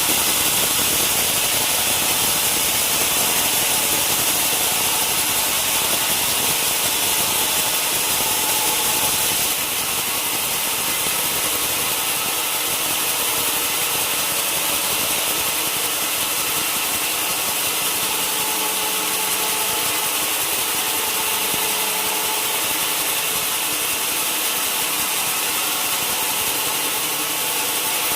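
Sawmill saw running steadily with a dense, hissing mechanical noise, dropping slightly in level about a third of the way through.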